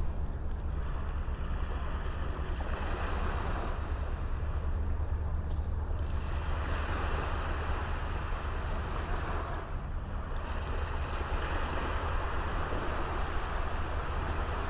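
Small waves washing onto a beach, the surf swelling and fading every few seconds, over a steady low rumble of wind on the microphone.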